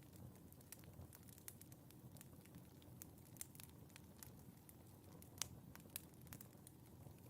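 Fire in a fireplace crackling faintly: irregular small pops and snaps over a low, steady rumble of flame, with one sharper crack about five and a half seconds in.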